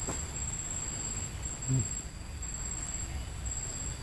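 A steady high-pitched insect trill, breaking off briefly now and then, over a low rumbling background. A short low sound comes about two seconds in.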